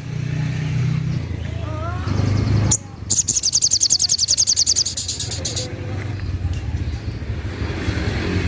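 A spiderhunter (sogok ontong) giving a fast, evenly repeated high trill of many quick notes, starting about three seconds in and lasting about two and a half seconds, over a steady low rumble.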